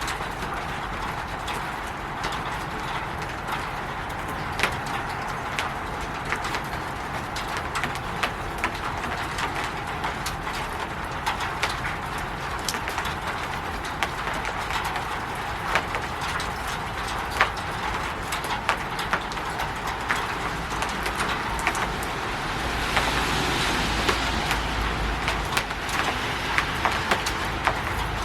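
Steady rain falling on a roof: an even hiss of patter with many irregular, sharper drops tapping. About 23 seconds in, a louder, brighter swell of noise rises for a couple of seconds.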